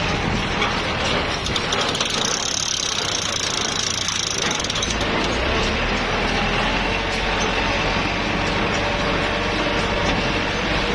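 Kubota L5018SP tractor's diesel engine running steadily under load in a low gear, pulling a straw baler through wet, boggy ground, with the mechanical clatter of the baler over it.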